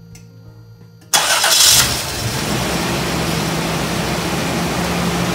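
A 1995 Toyota 4Runner's engine starting about a second in with a loud burst, then running steadily. It is run briefly to pump the old fluid out of the disconnected power-steering return hose during a flush.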